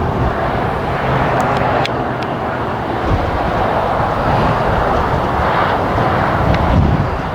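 Jet engines of a Boeing 777 on approach to land, a steady rushing roar, with strong gusty wind buffeting the microphone underneath.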